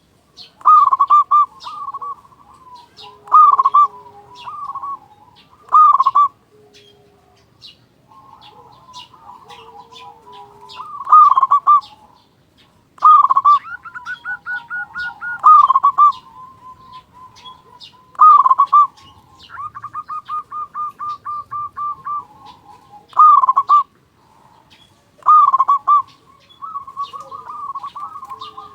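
Local zebra dove (perkutut) cooing loudly and repeatedly, a strong coo phrase every two to three seconds with quicker rattling runs of short notes between, and smaller birds chirping faintly in the background.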